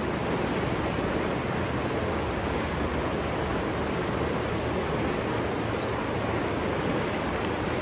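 River water running steadily, an even rushing noise with no break.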